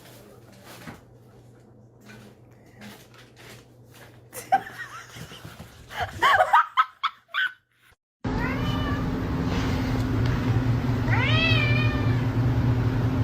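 Cat meowing: a few loud, wavering calls near the middle, then, after a sudden cut, two or three rising-and-falling meows over a steady low hum.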